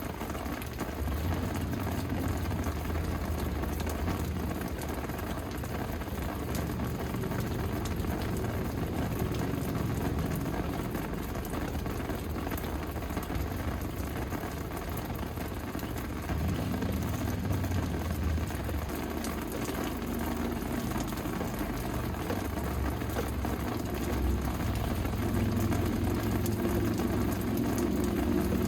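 Steady rain falling, a dense even patter, with a low rumble underneath.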